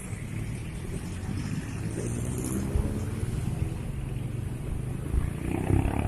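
Motor vehicle engine running in street traffic, its pitch rising as it speeds up about two seconds in.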